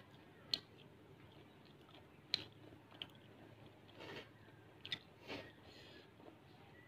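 A person chewing a mouthful of rice with fried potato and fish, soft and close, with a few sharp wet clicks of the mouth.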